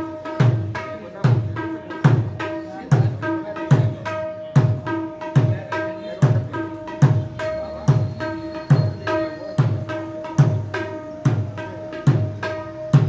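Mridanga, an Odia barrel drum, played in a steady rhythm. Deep bass-head strokes that slide down in pitch come about every three-quarters of a second, with ringing treble-head strokes and sharp slaps between them.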